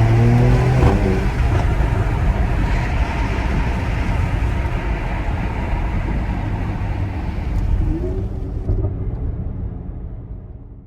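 Mercedes-AMG GLC 43's 3.0-litre twin-turbo V6 accelerating in the first second or so, its pitch rising, followed by a dense rush of engine and road noise that fades gradually over the last few seconds.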